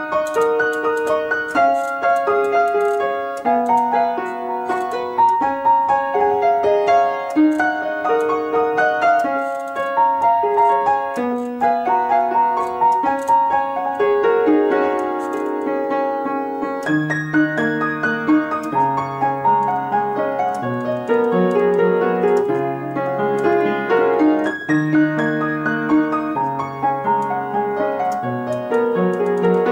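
Solo piano playing a slow piece of held notes and chords in the middle range; about halfway through, a lower bass line joins in.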